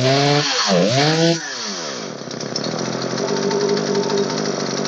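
Old Poulan 3616 two-stroke chainsaw running after its repair, revved twice in the first second and a half and then held at a steady run.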